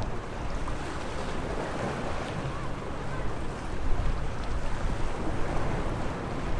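Sea waves washing against the shore, with wind buffeting the microphone; the surge swells a little about four seconds in.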